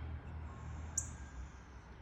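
A small bird gives one short, very high chirp about a second in, over a steady low background rumble.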